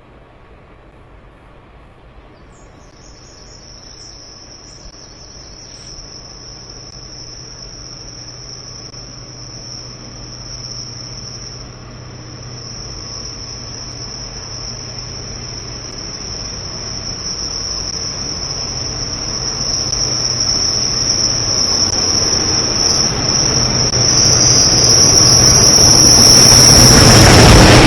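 Class 66 diesel locomotive and its coal train approaching, growing steadily louder throughout with the engine's hum underneath. A high, steady wheel squeal starts a couple of seconds in and gets sharper as the train draws close near the end.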